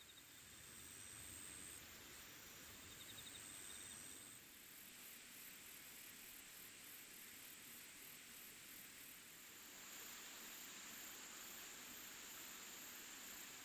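Faint insects chirping: a thin high trill, then a high chirp repeating about twice a second, over a soft steady hiss.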